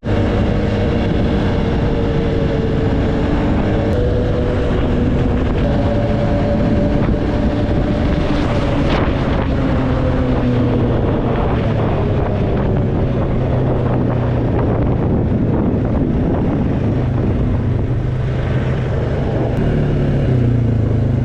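ATV engine running steadily while riding, its pitch drifting slowly up and down with speed.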